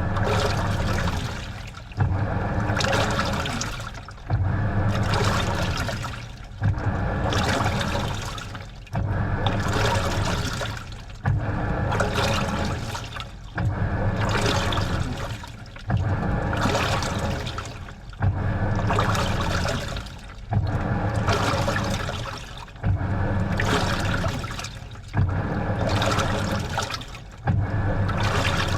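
Washing machine washing a load of laundry: water sloshing against the clothes in regular surges, one a little over every two seconds, each starting sharply and then fading.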